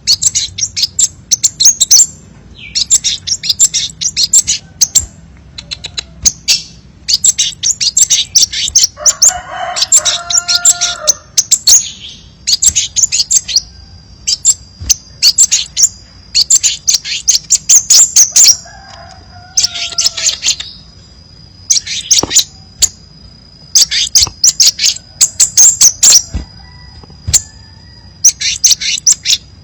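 Crimson sunbird song: bouts of rapid, high-pitched chipping trills, each a second or two long with short gaps between them. A thin steady high whistle runs under the trills through the middle stretch, and a lower call with several stacked tones sounds twice, about ten and twenty seconds in.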